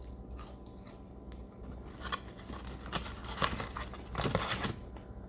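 Paper fast-food wrapper crinkling and rustling as it is handled, in short irregular bursts that are thickest in the second half, over a steady low hum.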